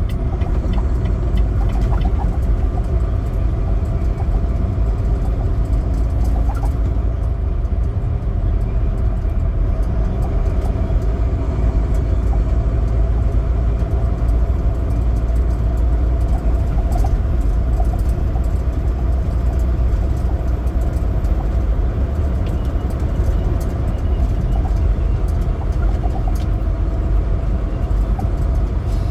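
Semi truck driving at a steady pace: a continuous low engine drone mixed with road and tyre noise, with no clear changes in speed.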